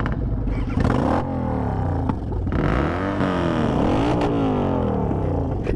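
A vehicle engine revving, its pitch rising and falling several times.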